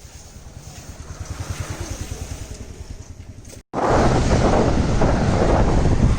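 Wind buffeting the microphone: a low fluttering that builds for a few seconds, then, after an abrupt cut about three and a half seconds in, much louder, steady wind rumble.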